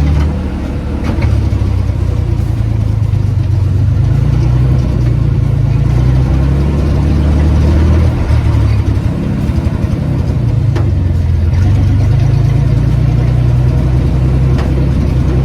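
1935 Ford rat rod's engine running while driving, its pitch rising and falling several times as it revs and slows, with a few short knocks.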